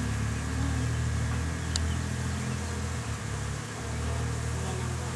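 Honeybees buzzing around an opened hive, a steady low drone.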